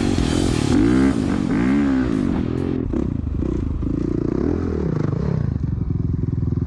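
Dirt bike engine revving up and down several times over the first few seconds, then running more steadily with a fast, even pulse.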